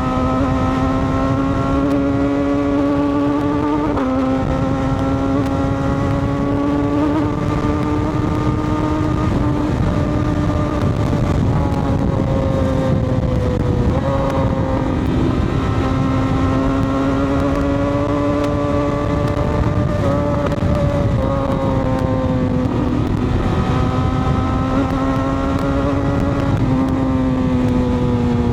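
Sport-touring motorcycle engine running under way, its note rising slowly and dropping or stepping several times with throttle and gear changes, over a steady rush of wind noise.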